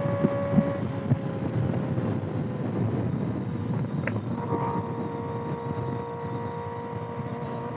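Kawasaki ZX-6R inline-four with a loud aftermarket exhaust running at a steady cruise, its tone easing slightly lower, then settling at a new steady, slightly lower pitch after a short click about four seconds in. Heavy wind noise on the microphone, with a few short thumps early on.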